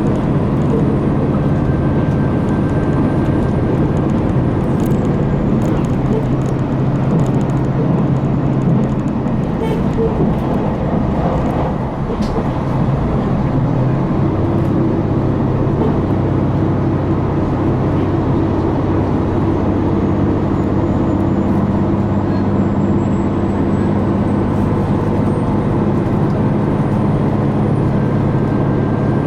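KiHa 261 series diesel railcar's engine running under power, a steady drone heard inside the passenger cabin. About twelve seconds in the sound dips briefly and the engine note settles at a different pitch.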